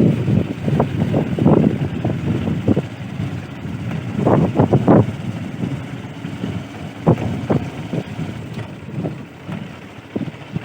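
Wind buffeting the microphone in irregular low rumbling gusts, strongest about four to five seconds in.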